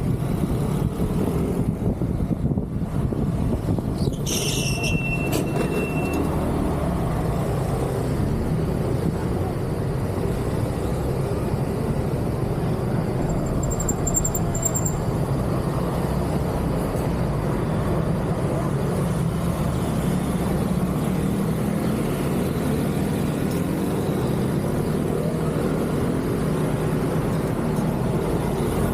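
Steady road traffic noise, a low rumble of passing vehicles, with a brief high-pitched squeal about four seconds in.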